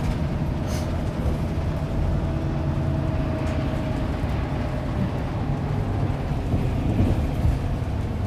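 Steady low rumble of a moving city bus heard from inside, with faint whining tones over it.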